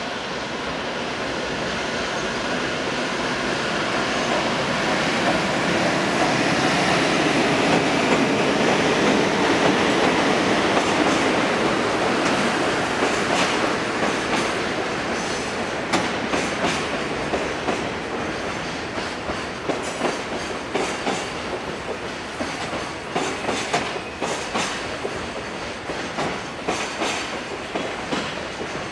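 Container freight train hauled by an EF510 electric locomotive, rolling into a station. A steady rumble swells and then eases, and over its second half the wagons' wheels click repeatedly over the rail joints.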